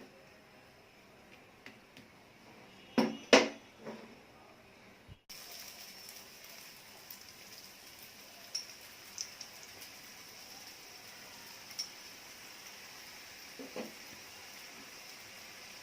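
A utensil knocks twice sharply against a tawa about three seconds in. A faint steady hiss follows, with a few light ticks and a soft knock near the end, while a stuffed paratha dry-fries on the pan.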